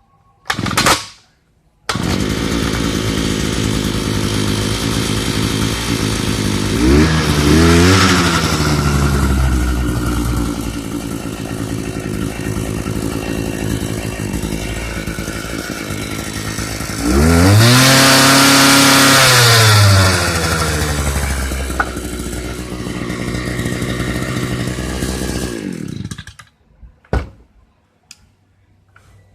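Thunderbay Y43 power auger's small two-stroke engine running again after a no-start repair. After a brief burst it starts about two seconds in and idles. It is revved up and let back down twice with the throttle, then shut off near the end. Powerful-sounding.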